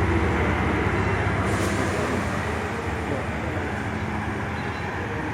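A diesel train's engine runs with a steady low drone that slowly fades. There is a brief hiss about a second and a half in.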